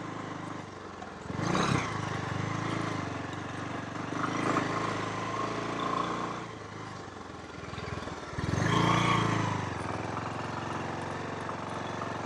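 Motorcycle engine running steadily on the road, with louder swells about 1.5, 4.5 and 9 seconds in, the biggest near 9 seconds.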